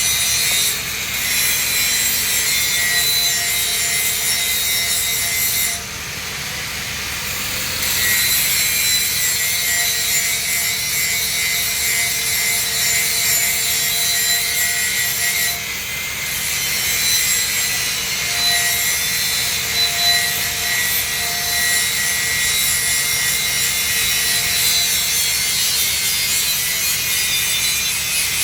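Electric welding arc on a 3-inch schedule 80 steel pipe joint, hissing and crackling steadily, with brief dips about a second in, for a couple of seconds near the quarter mark, and again a little past halfway.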